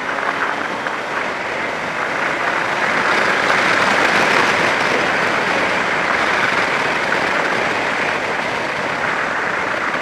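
Wind rushing past and engine noise from a Yamaha FZ6 sportbike ridden at highway speed, a steady rush that grows a little louder a few seconds in.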